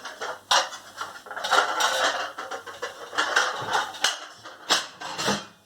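Plates clattering and clinking against one another as they are stacked and set into a kitchen cupboard, with a few sharper knocks.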